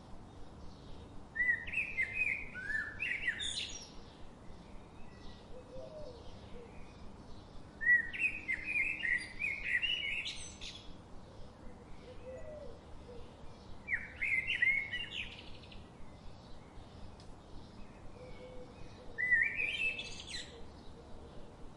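Birdsong: a songbird sings four short, quick phrases several seconds apart, over faint continuous chirping from other birds.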